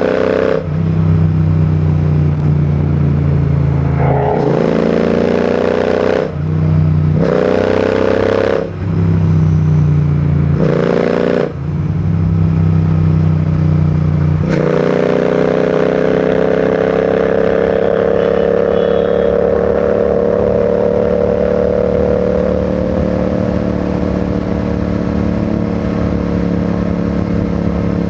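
Royal Enfield Continental GT 650's parallel-twin engine and exhaust under way, pulling up through the gears in three short rising surges, each ending in a brief drop in revs at the shift. From about halfway it settles into a steady cruise at an even pitch.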